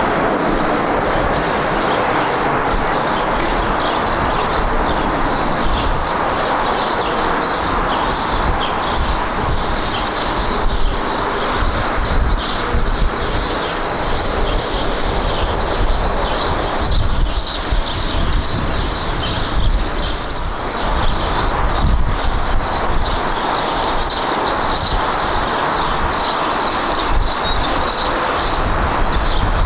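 Steady jet engine noise from an airliner, with high-pitched chirping flickering over it.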